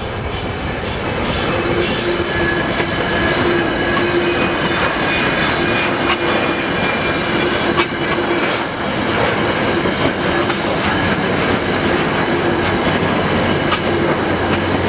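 Virginia Railway Express commuter train running on the track: a steady, loud rolling rumble with wheels clicking over rail joints and a thin intermittent wheel squeal.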